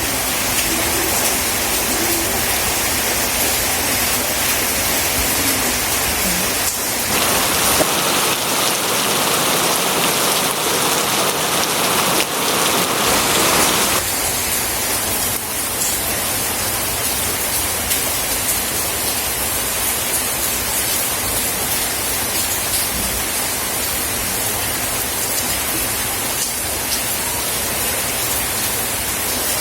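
Steady rain falling on surfaces, a dense even hiss. For several seconds in the middle it turns brighter and thinner, then settles back.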